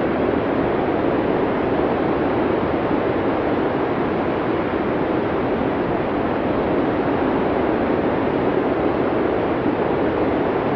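Blizzard wind blowing steadily, an even, low rushing noise with no gusts or separate sounds.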